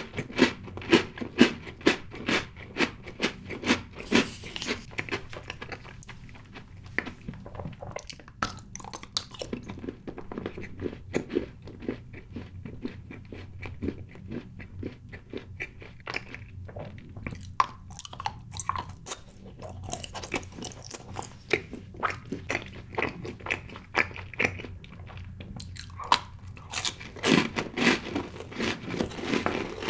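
Close-miked chewing and biting of chocolate cake and a chocolate bar: a dense run of wet mouth clicks and crunches. It is loudest at the start and again near the end.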